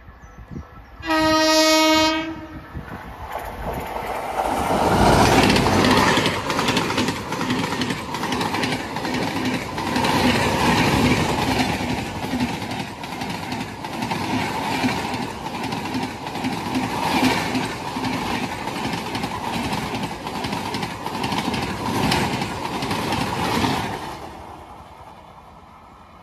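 Indian Railways locomotive horn sounds one note for about a second. A passenger train then rushes past close by for about twenty seconds, its wheels clattering rhythmically over the rail joints, before fading away near the end.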